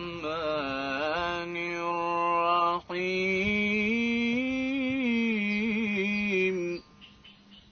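A male Quran reciter's voice holding long, ornamented melismatic notes in maqam Kurd, in two drawn-out phrases with a short break between them. The voice stops about seven seconds in.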